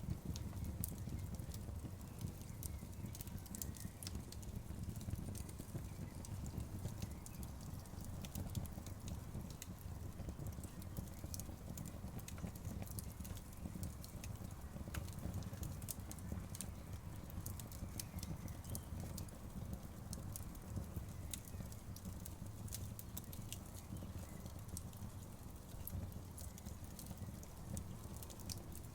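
Outdoor wood fire crackling: irregular sharp pops and snaps over a low steady rumble.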